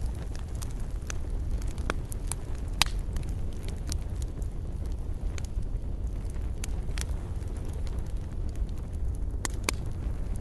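Campfire burning: wood crackling with sharp, irregular snaps and pops over a steady low rumble. The loudest pop comes about three seconds in, and two more come close together near the end.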